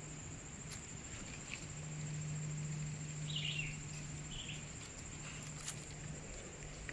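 Outdoor insect chorus: a steady high-pitched insect drone, with a short bird call about three and a half seconds in and a few faint clicks.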